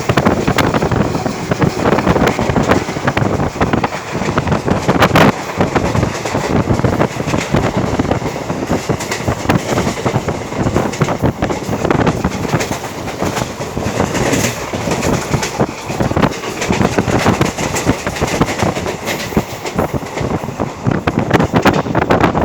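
Moving train heard from on board: steady rumble of the wheels on the rails, with frequent clattering clicks.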